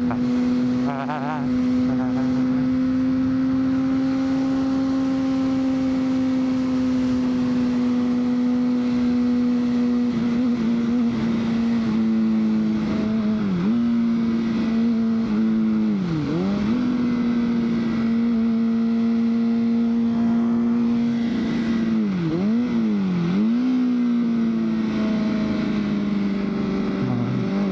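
2003 Honda CBR600RR's inline-four engine running steadily while riding, with wind rushing past. In the second half its note briefly drops and comes straight back up several times as the throttle is eased off and rolled on again.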